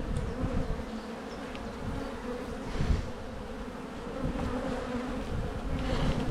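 Steady hum of honey bees from an open hive, with a few brief rustles about halfway through and near the end.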